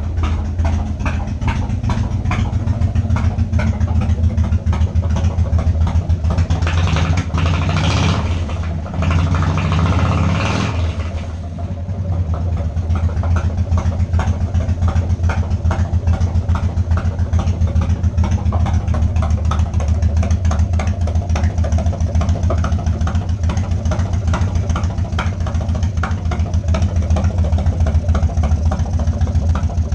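1995 Harley-Davidson Wide Glide's Evolution V-twin running at a steady idle through Hooker headers. A louder, noisier stretch comes about seven to eleven seconds in.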